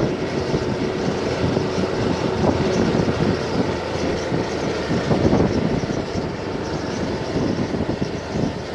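Vehicle on the move: steady engine and road noise, rough and unbroken.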